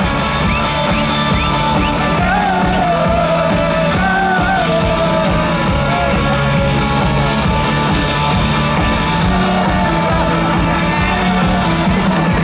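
Rock music with a singer over guitars and a steady drum beat, loud and continuous, as from a live band at a festival.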